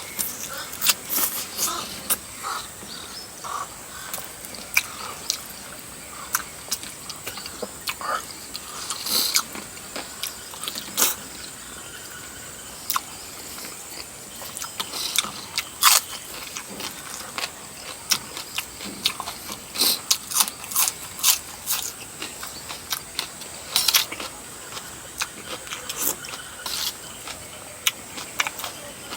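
Close-miked eating sounds: irregular wet chewing, lip smacks and mouth clicks, with short slurps scattered through.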